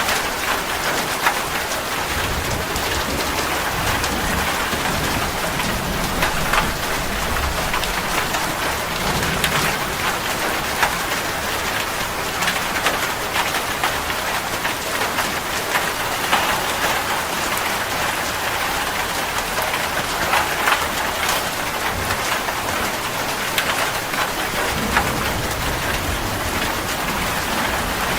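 Steady rain falling, a dense even hiss made of many sharp drop taps on surfaces.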